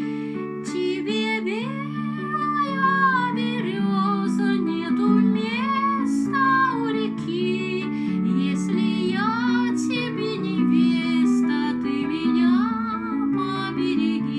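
A woman singing a Russian folk song over instrumental accompaniment, her melody gliding and wavering above steady held chords.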